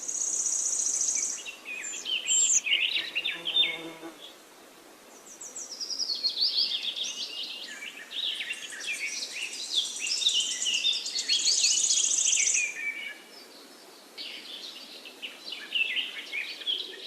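Songbirds singing in chorus: high rapid trills, runs of notes stepping downward and quick chirps, with brief lulls about four seconds in and again near the end.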